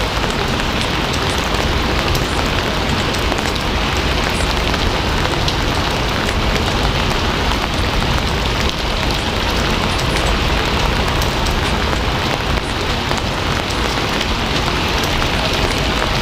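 Steady heavy rain falling on a surface, a dense even patter with scattered faint drop ticks.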